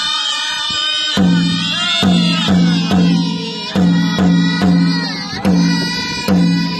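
Powwow drum song: a large hand drum struck in repeated beats, each with a low ring, under high-pitched group singing.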